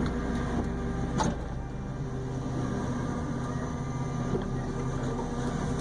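Heavy forestry machine engine running steadily under load, with one sharp crack about a second in.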